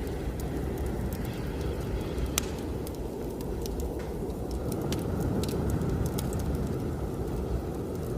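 Wood fire crackling, with irregular sharp pops, over a steady low rush of blizzard wind.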